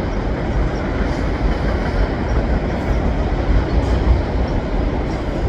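CN freight train's cars rolling past at track level: a steady, loud rumble of wheels on rail with faint scattered clicks from the wheels and joints.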